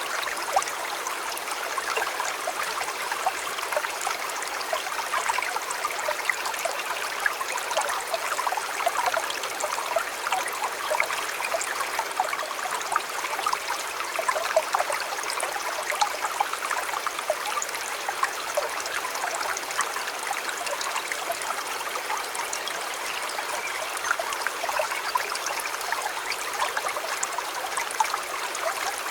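River water flowing steadily: a constant babble of many small trickles and splashes.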